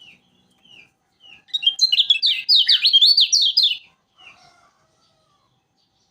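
A kecial kuning (yellow white-eye) singing: a few short down-slurred chirps, then a loud, rapid burst of sharp, high chattering notes lasting about two seconds, then a last chirp.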